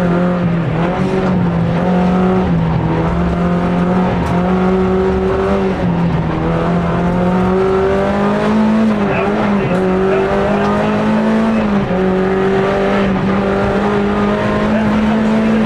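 Rally car engine heard from inside the cockpit, running hard along a stage. Its note climbs and then drops back several times as the driver changes gear.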